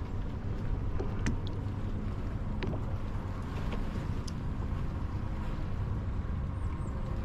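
A kayak out on open water: a steady low rumble of wind and water, with a few light clicks and taps now and then.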